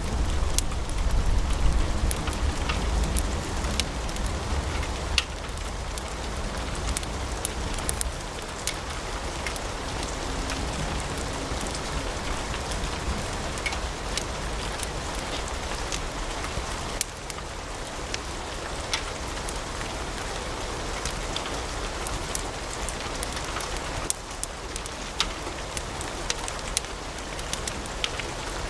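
Wood fire burning in a fireplace: a steady hiss with many sharp crackles and pops scattered throughout, over a low rumble that fades in the first few seconds.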